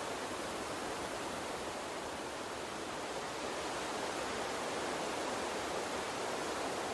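Gentle water stream flowing, a steady even rush with no distinct splashes or other events.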